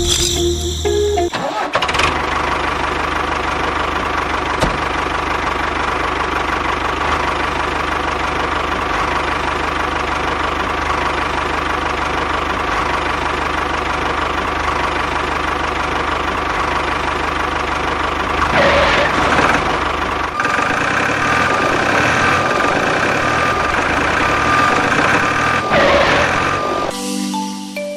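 Small motor running steadily with a buzzing, rattling hum, taking over from music about a second and a half in. About twenty seconds in it changes to a steadier whine with clear held tones, and music comes back just before the end.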